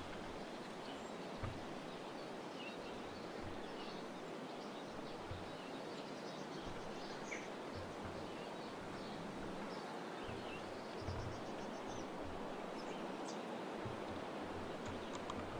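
Faint, scattered chirps of small birds over a steady outdoor hiss, with occasional soft low thumps.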